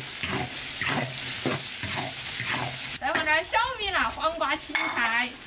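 Chilli and bean paste sizzling in hot oil in a wok while a spatula stirs and scrapes it, at the stage of frying out the red oil. About three seconds in the sizzle drops away and a woman's voice follows.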